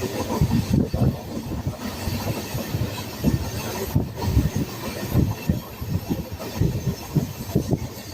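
Moving train's wheels rolling and clattering over the rails, a loud steady rumble with a dense run of irregular knocks and rattles.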